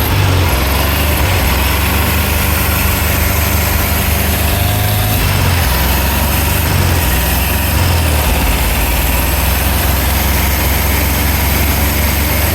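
1964 VW Beetle's air-cooled 40-horsepower flat-four engine running steadily, its pitch rising and falling a little. It is running again after sitting about 30 years, low on power and, by the owner's judgement, in need of a rebuild.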